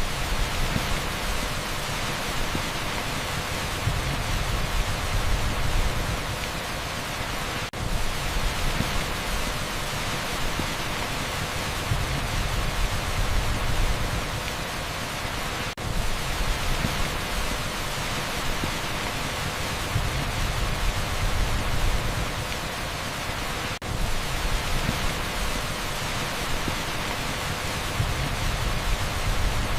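Torrential rain downpour as a dense, steady hiss like pink noise. A brief dip comes about every eight seconds, as at the seam of a repeating loop, and a low rumble swells and fades between the dips.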